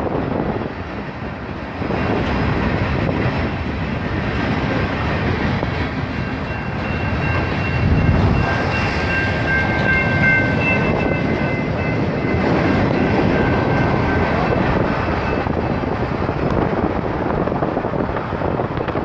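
Freight train of gondola cars rolling past, with a steady rumble and clatter of wheels on rail. Wind hits the microphone. A high, steady squeal sounds over the rumble for several seconds in the middle.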